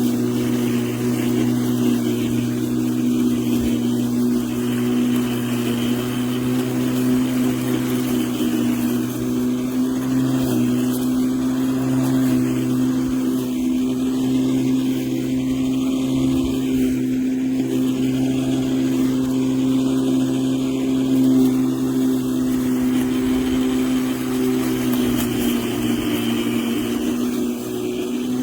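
LawnMaster CLMF4815E brushless cordless lawn mower running at a steady speed, its motor and blade giving an even, unchanging hum.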